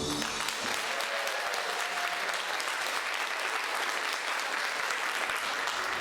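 Audience applauding steadily, a dense run of clapping.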